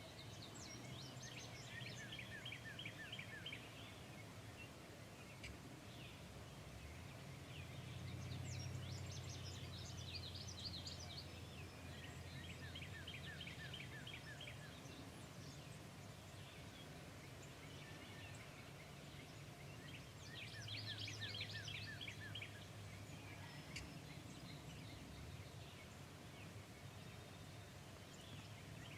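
Birds calling in bursts of rapid, quick-falling notes, several seconds apart, over faint outdoor background noise with a low hum at times.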